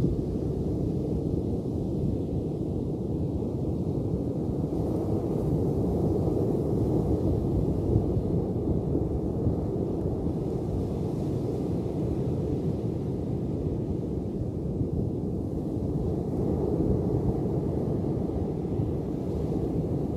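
Ocean waves: a steady, deep rumble of surf that swells a little twice.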